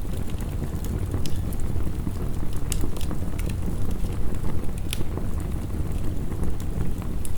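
Wood fire crackling, with sharp scattered pops over a steady low rush of heavy rain.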